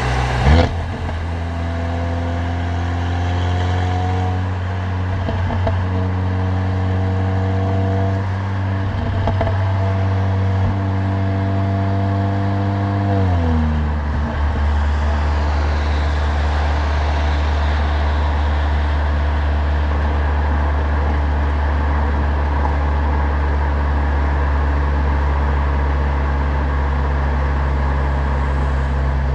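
Stage 2-tuned Mercedes-AMG CLA45's turbocharged four-cylinder with a loud exhaust, pulling gently with its pitch climbing in steps as it goes through the gears. About halfway through the revs drop and it settles into a steady low drone. A short sharp bang comes just after the start.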